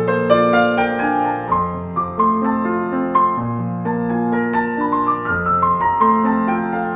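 Slow, gentle solo piano music: sustained chords and melody notes over a bass line that changes every second or two.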